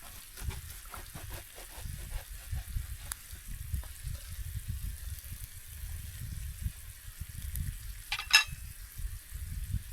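Faint sizzle of food frying, under an uneven low rumble of wind on the microphone. A short high squeak is heard once, near the end.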